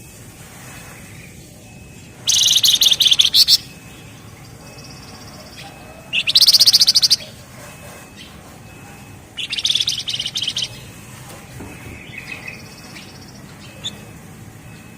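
Javan tesia (flamboyan) singing three loud, very rapid, dense trills of about a second each (the 'ngebren' song), with faint short high notes in between.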